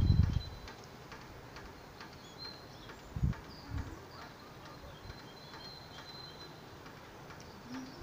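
Small birds singing faintly: short high chirps and thin whistled notes. Low bumps on the microphone at the very start and about three seconds in are the loudest sounds.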